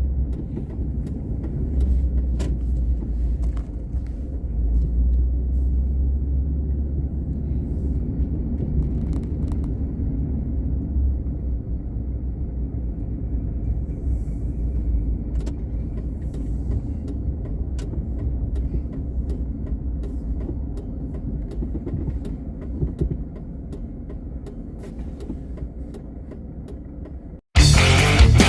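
Steady low rumble of a car driving, with scattered light clicks. About a second before the end it cuts off suddenly and guitar music starts.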